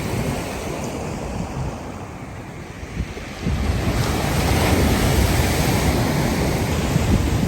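Black Sea waves surging and breaking on the shore, with wind buffeting the microphone; the rush and rumble swell louder about three and a half seconds in.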